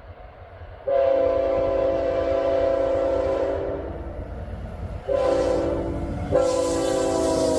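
Locomotive air horn sounding for a grade crossing: a long blast, a shorter one, then a third whose chord starts to drop in pitch near the end as the train comes past, over the low rumble of the approaching train.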